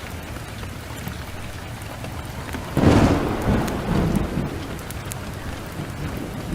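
Steady heavy rain, with a sharp thunderclap about three seconds in that rumbles away over a second or two.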